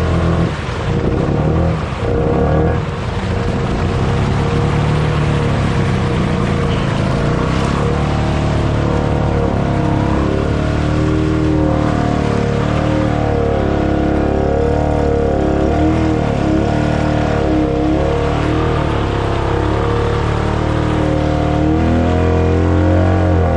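ATV engine running under load, its pitch rising and falling as the throttle is worked.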